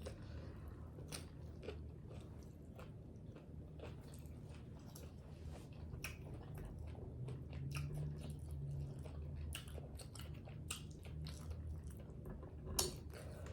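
Close-miked chewing and biting of tacos: irregular crisp crunches and wet mouth clicks, as in an eating-sounds video.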